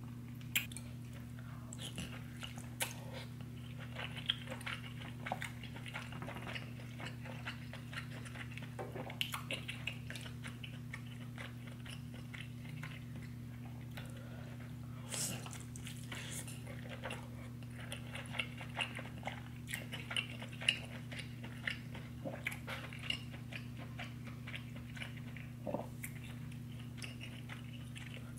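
Close-miked wet chewing, lip smacks and bites of butter-drenched seafood boil, in irregular clicks and squelches, over a steady low hum.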